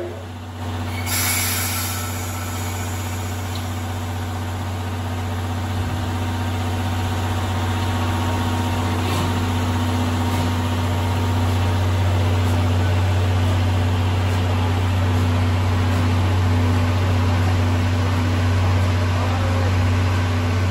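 Steady low hum of idling railway machinery, with a short hiss about a second in.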